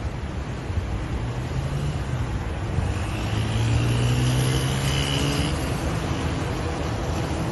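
An engine running as it passes close by, its hum growing loudest about four seconds in and then easing off, over a steady rushing noise.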